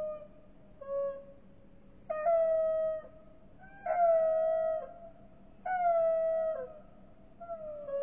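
Bird calls played back slowed down and deepened: a series of drawn-out calls, each about a second long with a slightly falling pitch, repeating every second and a half or so.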